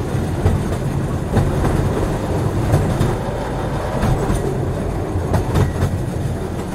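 Train running along the track: a steady low rumble with sharp clicks of the wheels over rail joints about every second.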